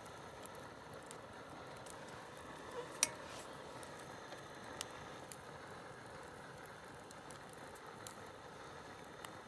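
Wood campfire crackling: scattered small pops and snaps over a steady soft hiss, with one sharper snap about three seconds in.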